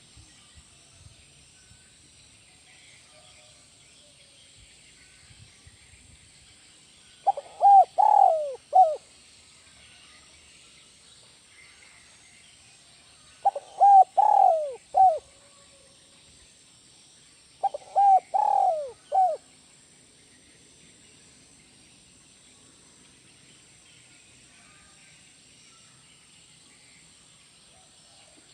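Spotted dove (tekukur) cooing: three song phrases several seconds apart, each a quick run of coos ending on a single separate closing note, the 'kuk 1' song type that keepers prize.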